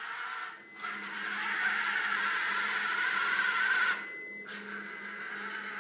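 A homemade robot vacuum's motors running with a steady whir and a low hum. The whir breaks off briefly about half a second in and again about four seconds in.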